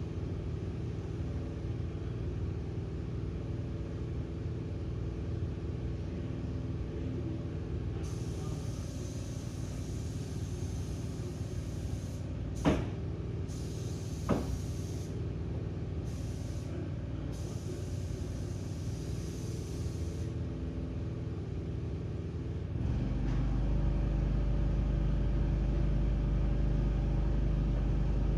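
Steady low mechanical drone, like a running motor. A hiss comes and goes in stretches for about twelve seconds, with two sharp clicks in the middle, and about 23 seconds in the low rumble steps up louder.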